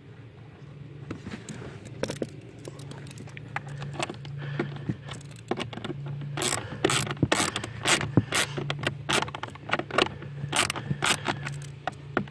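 Quarter-inch drive ratchet clicking as the screws holding a new blower motor are snugged into plastic. The clicks are sparse at first and come denser and louder from about halfway through.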